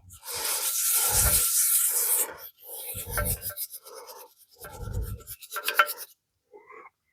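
A brush scrubbing a metal engine surface in several strokes, the first lasting about two seconds, then shorter passes, to clean it.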